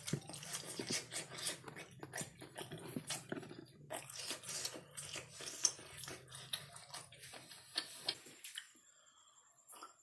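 A person chewing a mouthful of kerupuk basah, the soft, chewy Kalimantan fish-and-tapioca cake, close to the microphone: a steady run of small mouth clicks and chewing sounds that stops about eight seconds in.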